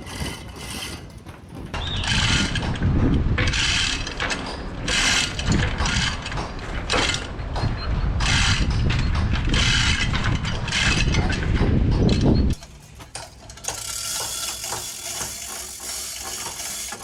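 Hand-operated chain hoist being hauled to lift an engine: a ratcheting chain clatter in repeated pulls, about one a second, over a low rumble. It cuts off abruptly about twelve seconds in, leaving a fainter hiss.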